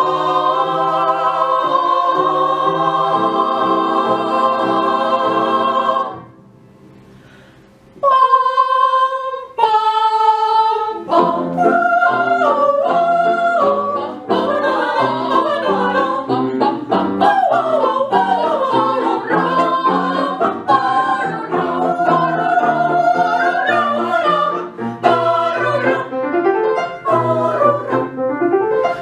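Vocal ensemble singing in several parts. A long held chord breaks off about six seconds in. After a pause of about two seconds the singing resumes with short held chords, then moves into a busier passage with the voices moving against each other over a steady low line.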